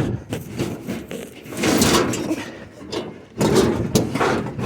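Scrap being lifted and shoved into place in a full load, scraping and knocking in two main bursts.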